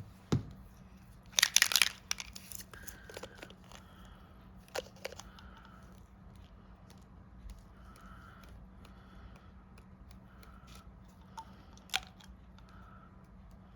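Small handling sounds of craft work with an ink spritz bottle and card stock: one short rustling burst about one and a half seconds in, then scattered light taps and clicks, with a sharper tap near the end.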